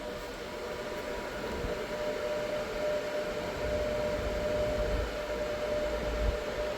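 Daeyoung Chaevi DC fast charger running while it charges an electric car: cooling-fan rush with a steady, unchanging electrical whine.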